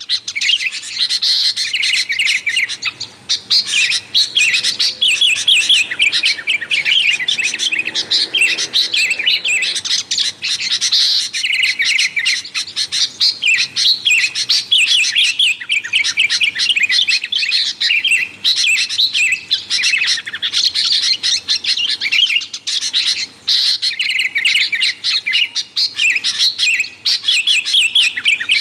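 Sooty-headed bulbuls (kutilang) calling in busy, noisy chatter, with rapid overlapping chirps that never pause.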